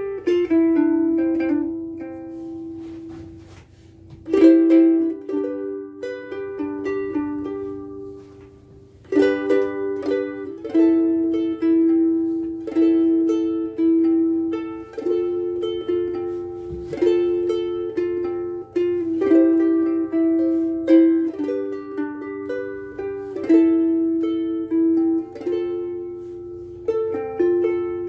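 Cocobolo soprano ukulele, freshly strung with higher-tension Uke Logic strings, being played. A few chords ring out and die away, then from about nine seconds a steady picked melody runs on with notes that ring.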